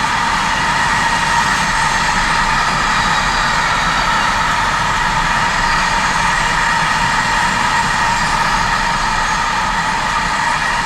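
Train passing on the line: a steady rolling noise with a steady high whine over it, unchanging throughout.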